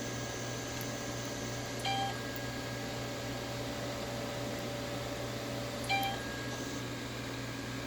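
Palomar Vectus laser system running with a steady machine hum, giving two short electronic beeps about four seconds apart.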